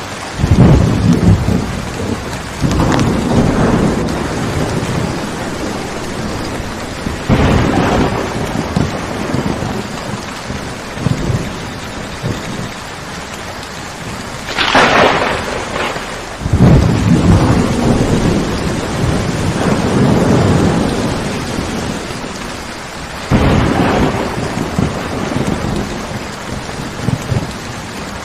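Steady heavy rain with thunder rumbling again and again, about six rolls that swell and fade, one of them a sharper, brighter crack about halfway through.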